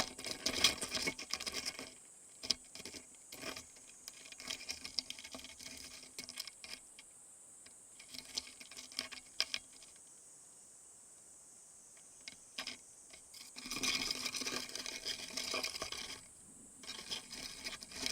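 Stag beetles grappling: rapid, irregular scratching and clicking of legs and jaws scraping against each other and the surface, in bursts. It is busiest at the start and again about three-quarters of the way through, with a lull in between.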